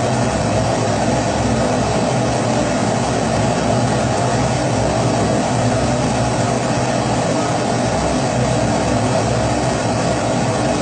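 Kerosene pressure stove (Primus-type babour) burner running with a steady, unchanging rushing noise and a low hum.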